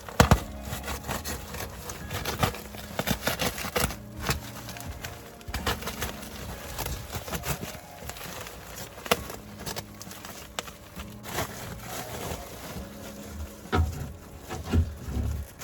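Irregular clicks, knocks and rustling from hands-on work on HVAC flexible ductwork, over a low steady hum and background music.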